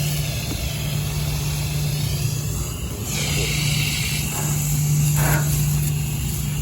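Garden hose spraying water onto rooftop HVAC equipment, its hiss louder for about a second around the middle, over a steady low machinery hum.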